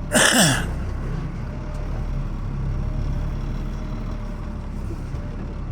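Tow truck engine running steadily, heard from inside the cab. Right at the start there is a short, loud hiss with a falling squeal.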